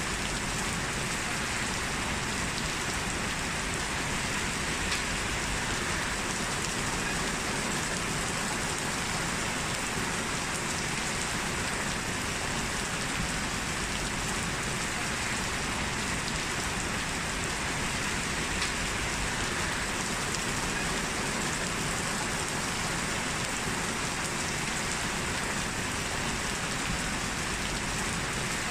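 Steady heavy rain falling, an even hiss with scattered faint drop ticks.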